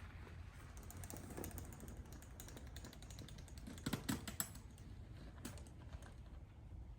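Quick, light mechanical clicking and ticking, like bicycle parts being handled or adjusted, with a cluster of sharper clicks about four seconds in.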